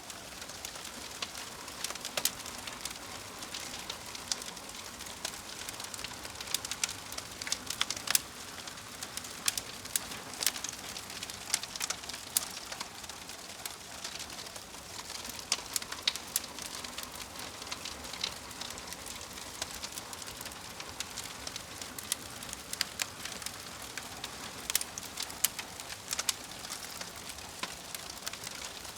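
Wood fire crackling steadily, with a soft hiss and frequent sharp, irregular pops and snaps.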